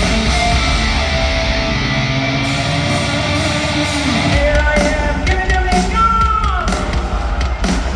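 Live hard rock band playing at arena volume, with electric guitars to the fore and some singing. The deepest bass drops away for about a second a few seconds in, then the full band comes back.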